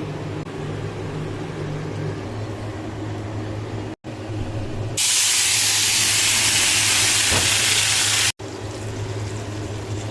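A low steady hum, then about five seconds in a loud, even hiss of cooking steam that lasts about three seconds and cuts off abruptly.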